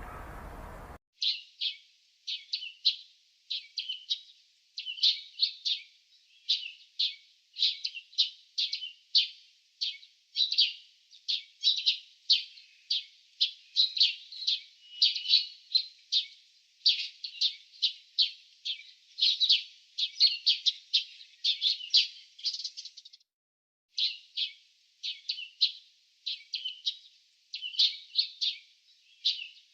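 Small birds chirping in quick runs of short, high calls, several a second, with a pause of about a second near 23 seconds in. A low hiss cuts off abruptly about a second in, just before the chirping starts.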